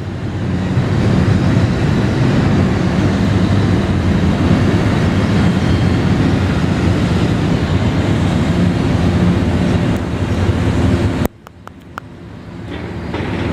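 Loud, steady rushing outdoor noise, heaviest in the low end: wind buffeting the microphone over the wash of city traffic below the balcony. It drops away suddenly near the end and then swells back up.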